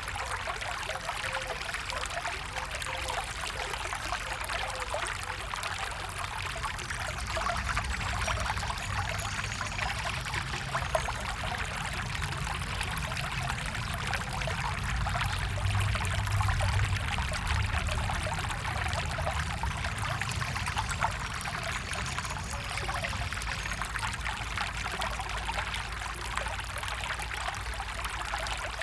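A forest stream flowing steadily, its water splashing and trickling over stones, a little louder around the middle.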